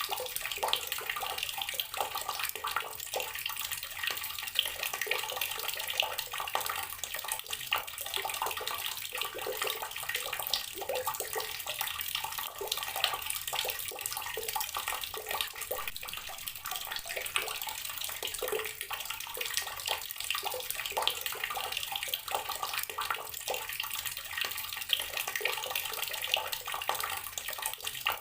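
Water running steadily from an outdoor tap, splashing as it lands, with many small irregular splashes.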